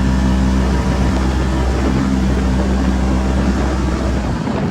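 Off-road vehicle engine running steadily while riding through snow, its note holding even; the deep low rumble drops away near the end.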